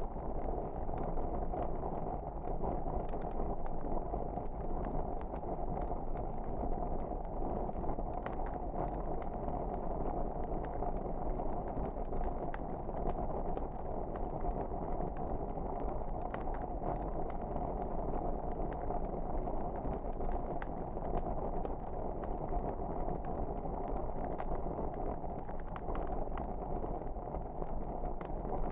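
Log fire burning in a fireplace: a steady low rush of flames with frequent small crackles and pops scattered throughout.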